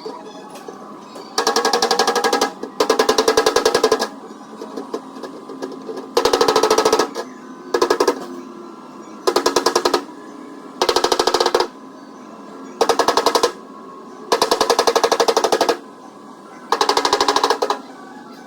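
A pneumatic air hammer rattling in short bursts of very rapid blows against the sheet-metal car door panel. There are about nine bursts, each lasting around a second, with brief pauses between them.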